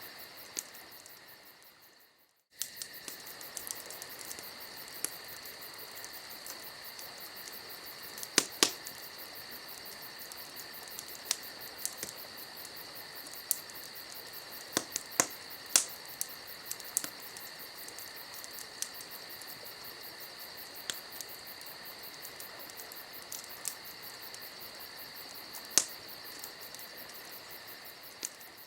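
Campfire crackling, with scattered sharp pops over a steady high-pitched insect trill. The whole bed fades out and comes back about two seconds in.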